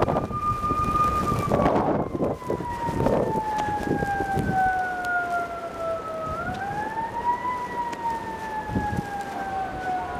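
A nearby siren wailing: its pitch holds for about a second, slides slowly down for several seconds, climbs back up about six seconds in, then slides down again.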